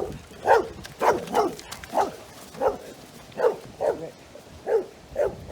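A dog barking over and over at a steady pace, about nine short barks in a little over five seconds.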